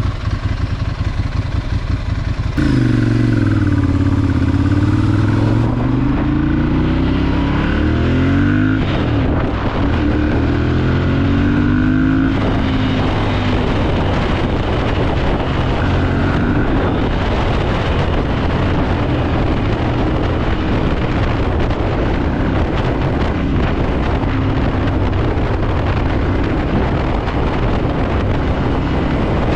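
Ducati Monster 796's air-cooled V-twin engine running low and steady, then pulling away about three seconds in, its pitch rising and falling through gear changes. After that comes a steady rush of engine and road noise at riding speed.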